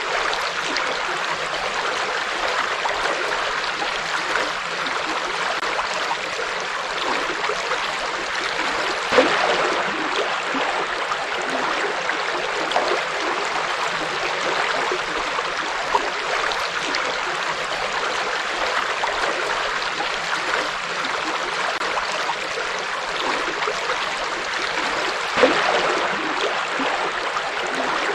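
River water flowing steadily: an even, continuous rush of water, with three brief louder splashes standing out along the way.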